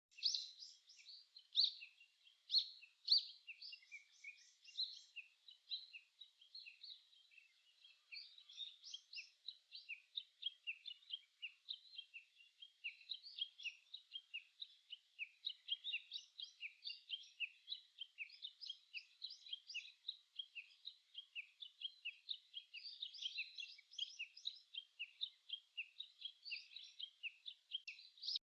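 Small songbirds chirping and singing in a dense, continuous chorus of quick, high notes, with a few louder calls in the first few seconds.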